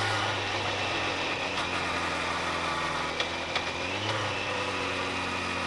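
Car engine running steadily while driving, heard from inside the car, with its pitch rising briefly about four seconds in. A few small clicks come just before that.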